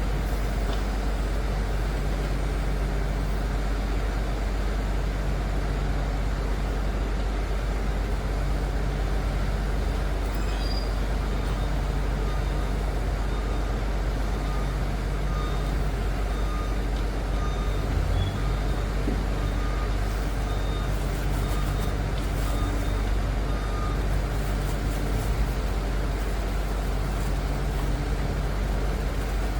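Liebherr PR 746 crawler dozer's diesel engine running steadily with a deep low rumble. From about ten seconds in to about twenty-four seconds in, its reversing alarm beeps repeatedly over the engine.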